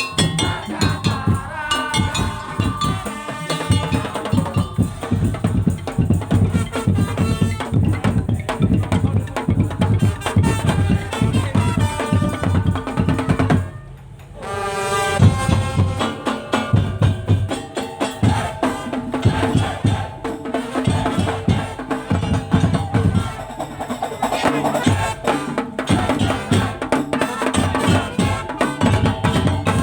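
Madurese tong-tong ensemble playing: wooden slit drums and drums beat a dense rhythm under a melody line. The music drops out briefly about halfway through, then comes back in.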